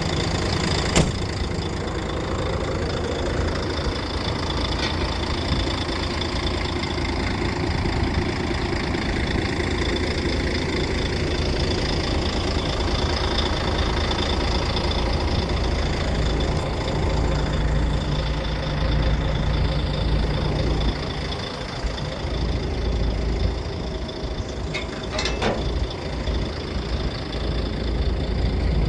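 Heavy diesel engine of a Volvo FH12 wood chipper truck idling steadily, with a few brief clicks.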